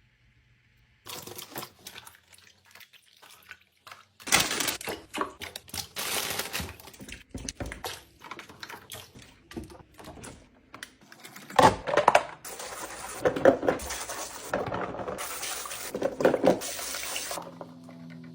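Water running from a tap and splashing into a sink, heard in short stretches that start and stop abruptly.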